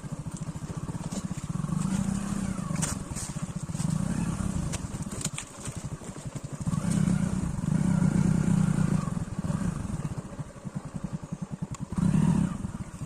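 Motorcycle engine running at low speed, its note swelling and easing several times with the throttle, then stopping abruptly at the very end.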